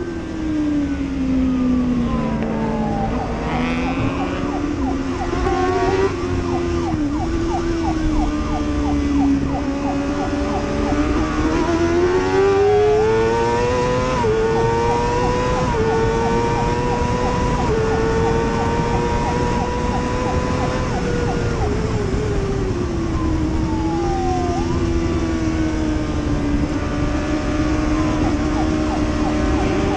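Sport motorcycle engine at high revs on track, the pitch climbing through each gear and dropping sharply at each gear change several times over, with a few slower dips and rises as it slows and accelerates again.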